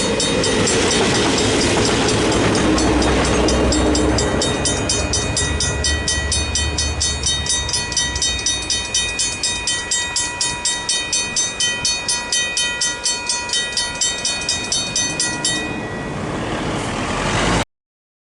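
Griswold mechanical level-crossing bells ringing in rapid, even strokes while a train rumbles past, the rumble strongest in the first half. The bells stop near the end, just before the sound cuts off abruptly.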